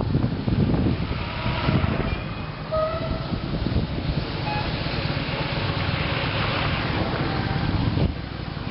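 Motorcycle on the move, heard from the pillion: steady rough engine and road noise, with a few short high tones about two to five seconds in.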